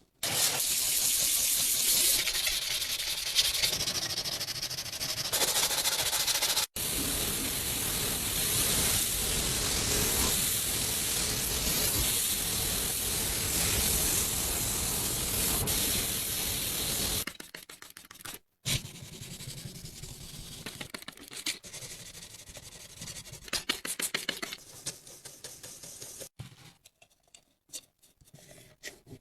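A loud, steady spray hiss for about seventeen seconds, broken once by a brief cut, then quieter, irregular rubbing and scraping.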